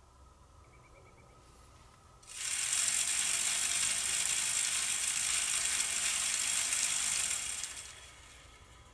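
A loud, dense, high-pitched rattling noise that starts suddenly about two seconds in, holds steady for about five seconds, then fades.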